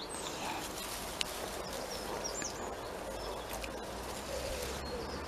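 Outdoor garden ambience: a small bird chirps faintly a few times with short, high, falling notes over a steady low rumble.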